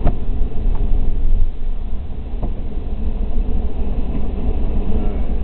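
A police car driving through a cone course: a steady low rumble of engine and road noise, with one sharp knock right at the start and a couple of faint ticks after it.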